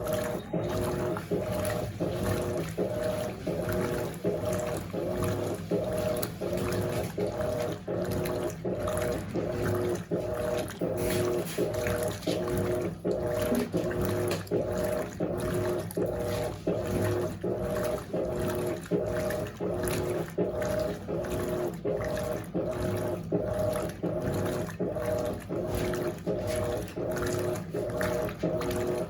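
Electrolux LAC16 top-load washing machine agitating at high water level, water sloshing while its motor, a 1/4 hp motor taken from an LT13B in place of the original 1/3 hp, hums in an even pulse a little over once a second.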